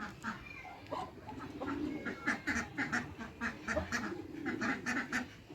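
Ducks quacking, many short calls in an irregular run.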